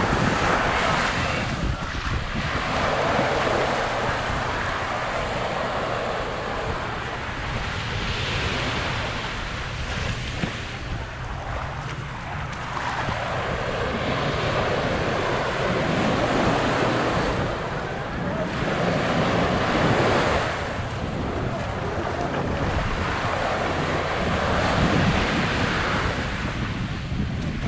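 Small waves breaking and washing up on a sandy beach, swelling and falling away every few seconds, with wind buffeting the microphone as a low rumble underneath.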